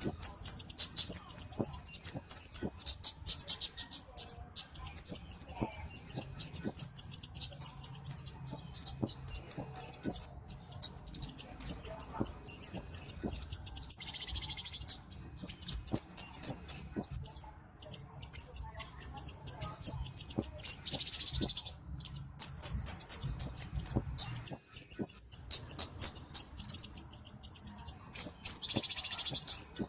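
Cabe-cabean flowerpecker calling: rapid runs of high, thin chirps in bouts of a few seconds, broken by short pauses.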